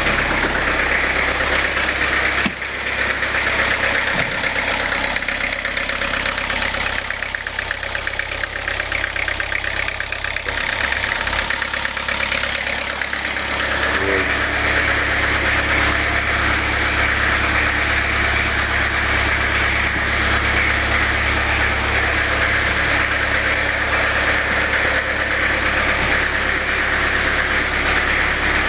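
Peugeot 604's four-cylinder turbodiesel idling steadily just after a cold start, its first run after sitting unused for years. There is a sudden break in the sound about two and a half seconds in, and the idle grows fuller about halfway through.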